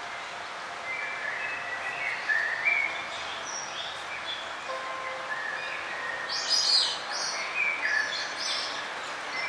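Songbirds chirping and calling in short high notes over a steady background hiss, with a louder flurry of rapid chirps about six and a half seconds in.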